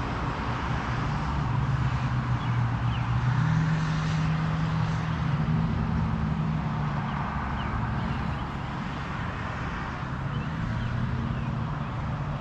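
A motor vehicle's engine hum that shifts in pitch and grows louder in the middle, over a steady rushing noise.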